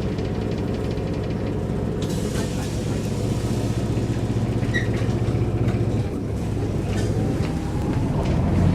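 Mercedes-Benz O405 N² city bus heard from inside the cabin while driving. Its six-cylinder diesel runs steadily through the Voith automatic gearbox, dips briefly about six seconds in, then builds again near the end, with light interior rattles.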